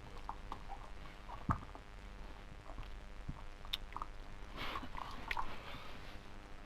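A dog biting and chewing at a treat puzzle toy, with scattered small clicks, a sharp knock about a second and a half in, and a busier scuffling patch near the end.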